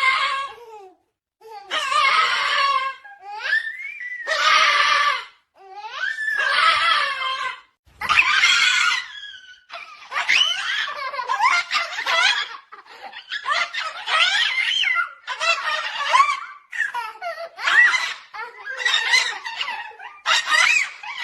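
Repeated bursts of high-pitched laughter, each a second or two long, with short pauses between them at first and running almost without a break in the second half.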